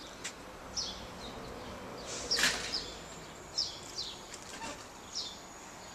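Small birds chirping outdoors: short, high, downward-sliding chirps, several in a row about a second apart, over a thin steady high tone and background hiss. A brief rustling noise comes about two seconds in.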